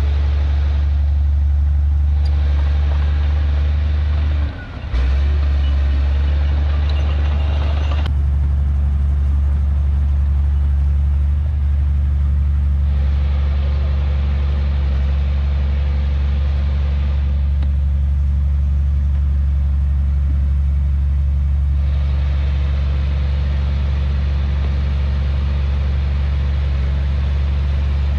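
Heavy diesel engine of earthmoving machinery running steadily with a deep, even drone. It dips briefly about four and a half seconds in.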